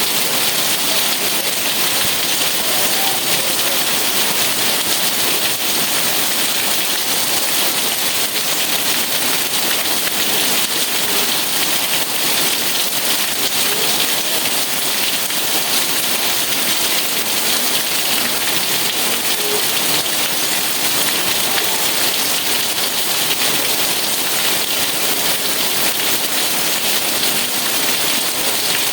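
Steady rain falling, an even hiss of many drops with no breaks or changes in level.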